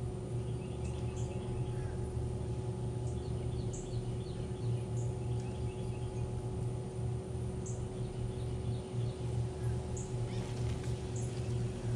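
Birds chirping, short high notes every second or two, over a steady low hum.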